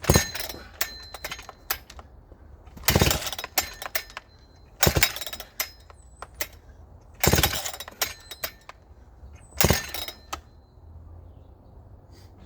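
Husqvarna 394XP two-stroke chainsaw being pull-started: five pulls of the starter cord, about two to three seconds apart, each turning the engine over briefly without it catching.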